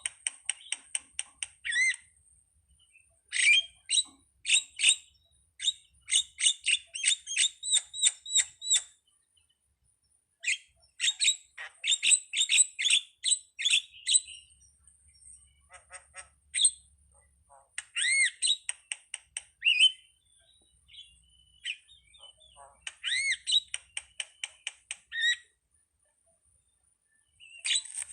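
Jalak (starling) calling: bursts of rapid, repeated high chattering notes mixed with curved whistles, broken by short pauses, with a longer pause near the end.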